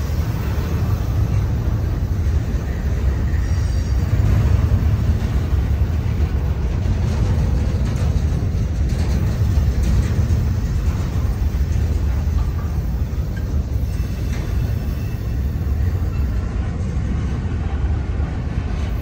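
Double-stack intermodal freight train's well cars rolling past: a steady low rumble of steel wheels on rail, with a few faint high wheel squeals.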